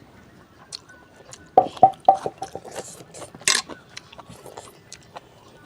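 Eating noodles: a quick run of utensil clicks against the bowl a little after a second and a half in, then a short noisy slurp-like burst about three and a half seconds in, among scattered small clicks.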